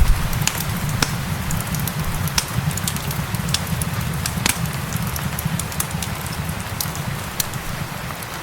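Crackling fireplace with frequent sharp pops, over a steady hiss of rain and a constant low rumble.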